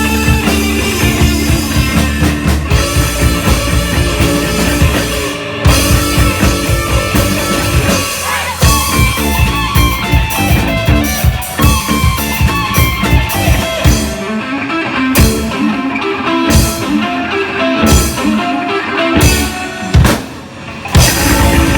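Rock band playing an instrumental passage on drum kit and electric guitar. In the second half it breaks into stop-start accented hits, briefly drops out near the end, and then the full band comes back in.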